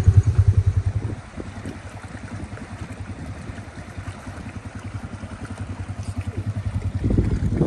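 A vehicle engine running with a fast, even low pulse. It is loud for the first second, then drops back, and grows louder again near the end.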